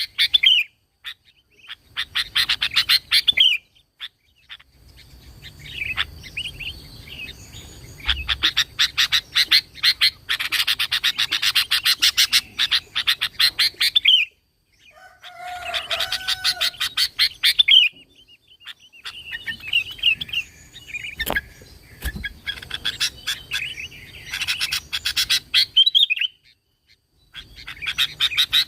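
Sooty-headed bulbul singing energetically: bursts of rapid chattering notes, several ending in arched whistled phrases, repeated with short pauses between.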